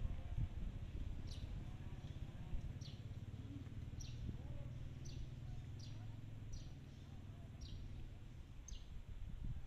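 A bird calling outdoors: a short, high chirp that falls in pitch, repeated about once a second, over a steady low rumble.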